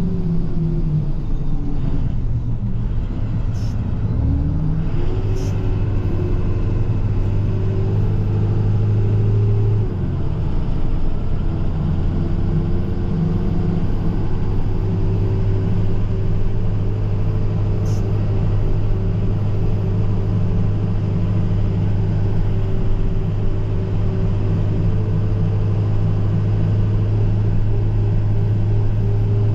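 International TerraStar plow truck engine running on the move. Its pitch drops over the first few seconds, climbs back up as the truck gathers speed, then holds steady.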